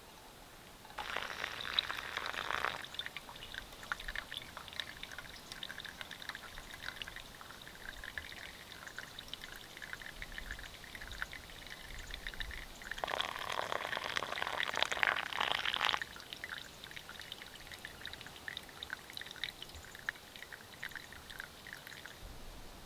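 Water poured into a paper pour-over coffee filter, in two pours, the second longer. Between and after the pours, brewed coffee drips steadily through the filter into a metal mug in many small ticks.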